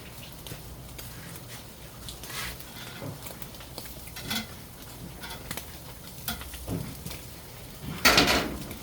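Tableware clinking: dishes and cutlery tapped together in scattered small clicks, with a louder clatter near the end.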